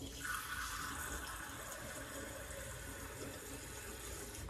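Water running steadily from a tap, starting and stopping abruptly.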